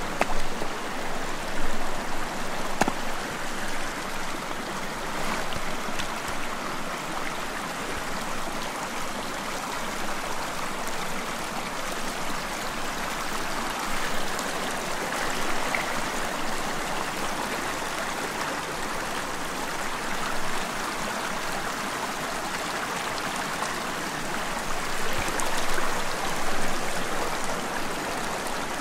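Shallow stream water flowing and trickling steadily, with a few brief louder moments near the start and near the end.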